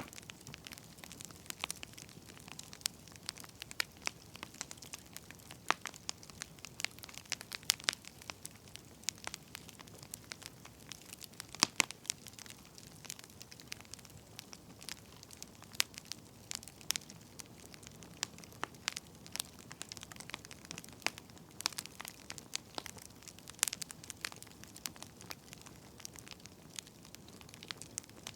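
Burning firewood crackling: irregular sharp pops and snaps over a faint steady hiss, one pop louder than the rest about twelve seconds in.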